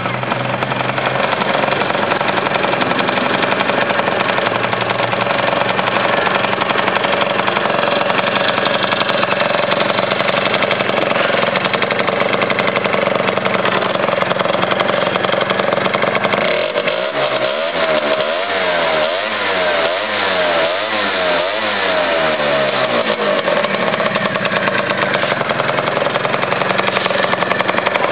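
Two-stroke Peugeot Vivacity scooter engine running through a Top Racing aftermarket exhaust, idling steadily. About two-thirds of the way through, it is revved in several quick throttle blips over roughly six seconds, then settles back to idle.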